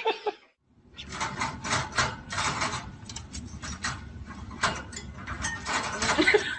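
Rapid, irregular clicking and rattling, like small hard objects knocking together.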